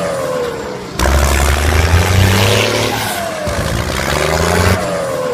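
Tractor engine running under load and revving in surges, with a deep hum and a falling whine that repeats every couple of seconds; the sound changes abruptly about a second in.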